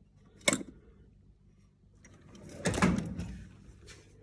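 A small storage drawer or container of old screws and bits being handled: a sharp knock about half a second in, then a longer scraping clatter near three seconds, with a few lighter clicks after.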